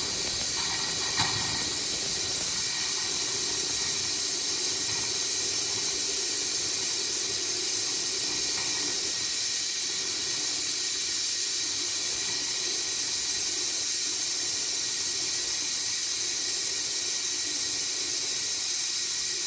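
Hot-water tap running wide open with a steady rushing hiss, flushing trapped air and water out of the lines of a newly filled water heater tank.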